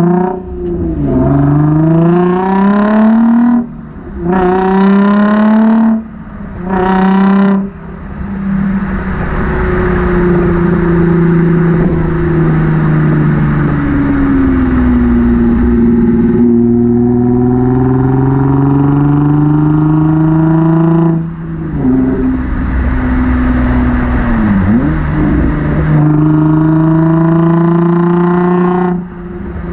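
Nissan 350Z's 3.5-litre V6 through a MotorDyne cat-back exhaust, accelerating hard through several gears: the engine note climbs, cuts out briefly at each upshift, and climbs again. It then settles into a steadier pull whose pitch drifts slowly up and down, with another shift break and a quick dip and rise in revs later on.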